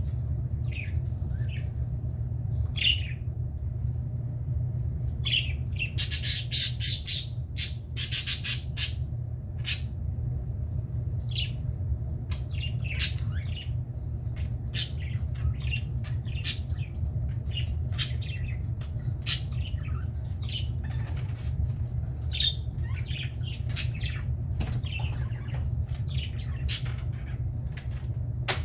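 Budgerigars chattering with many short, high calls and squawks, with a run of louder, harsher squawks about six to nine seconds in, over a steady low hum.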